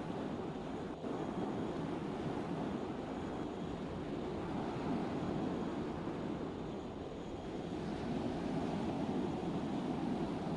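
Steady low rumble of a cargo ship under way.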